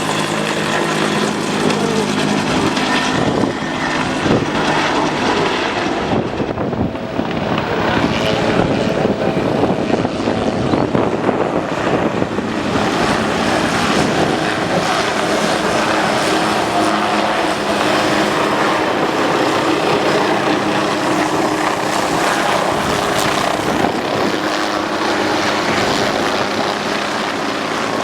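Aircraft flying a display overhead, its engine and propeller or rotor noise running loud and steady, with a brief dip in the highs about six to eight seconds in.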